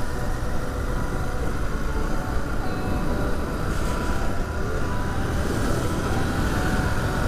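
Royal Enfield Interceptor 650's parallel-twin engine running steadily on the move, heard under heavy wind noise on the microphone.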